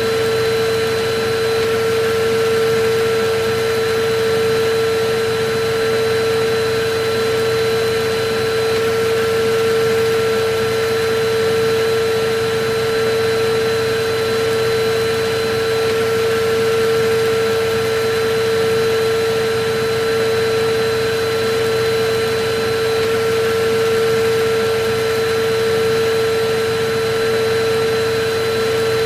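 Vacuum cleaner running steadily: a high motor whine over a hiss of rushing air, swelling and easing slightly every two or three seconds.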